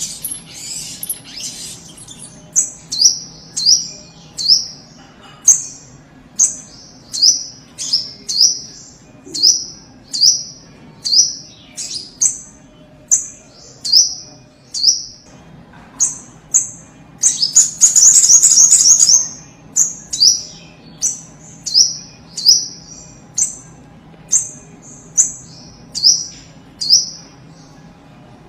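Little spiderhunter (sogok ontong) calling: sharp, high, downward-slurred notes repeated about twice a second. About two-thirds of the way through, a louder, rapid chattering run of notes interrupts the series before it resumes.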